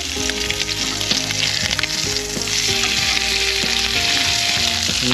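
Cray (rock lobster) tail sizzling as it fries in garlic butter in a frying pan, louder in the second half, with occasional clicks of metal tongs turning it around the pan.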